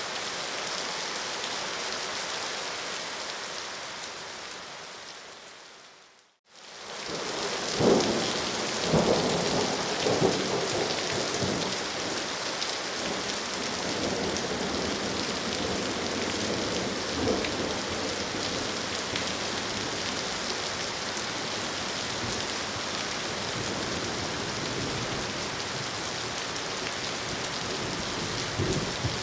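Steady rain that fades out about six seconds in and fades back in as a thunderstorm: rain with several low rolls of thunder in the following seconds and another near the end.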